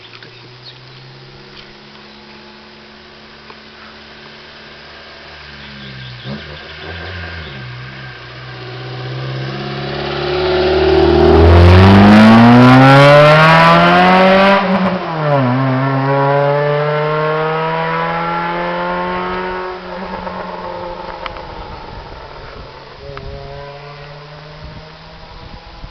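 Honda Civic's 1.3-litre D13B2 four-cylinder running with no muffler, its open exhaust getting louder as it accelerates and climbs in pitch, loudest about halfway through. The pitch drops suddenly about 15 seconds in, then the engine note holds and fades away.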